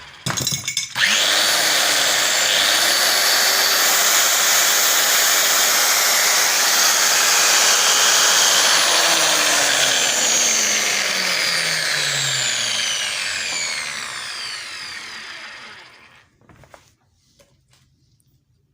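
Hilti power tool's electric motor running at full speed, steady, then switched off and winding down with a falling whine until it stops near the end.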